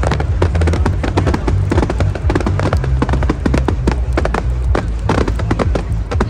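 Fireworks going off: a dense, continuous run of bangs and crackles.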